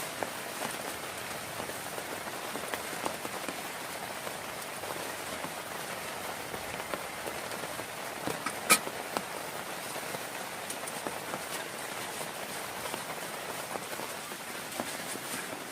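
Steady heavy rain falling and pattering on surfaces, with scattered individual drop hits and one sharp tap a little past halfway.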